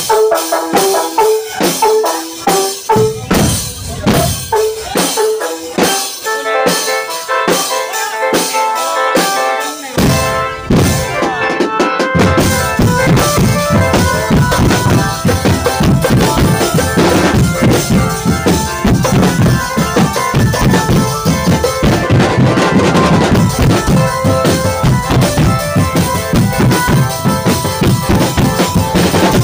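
Drum band music: drums beating a steady rhythm under a melody, turning fuller with deep bass drums about twelve seconds in.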